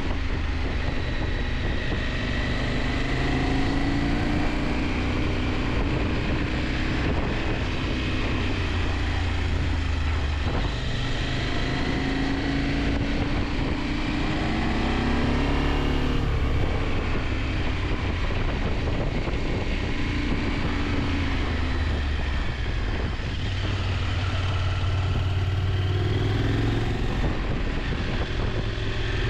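KTM 890 Adventure's parallel-twin engine pulling along the road, its revs rising and falling with the throttle, under a constant rush of wind noise on the microphone.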